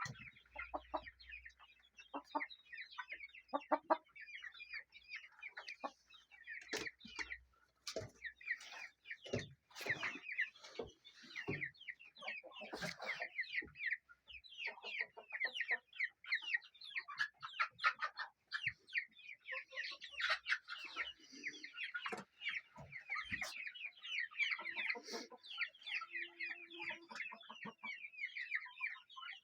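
Chickens calling steadily: a dense run of short, rapid clucks and peeps, with scattered sharp knocks.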